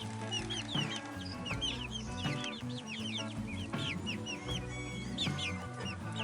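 Chickens clucking and peeping, many short chirps one after another, over background music.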